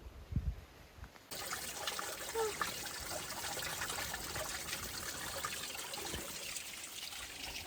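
Steady sound of running water, starting abruptly about a second in, after a brief low thump.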